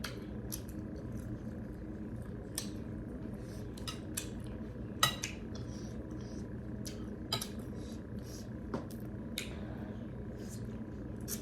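Scattered light clicks and clinks of a meal being eaten from a plate, with one louder clink about five seconds in, over a steady low hum.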